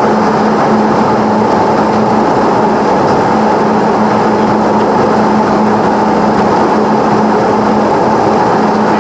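Cessna 172's piston engine and propeller running with a loud, steady drone that does not change.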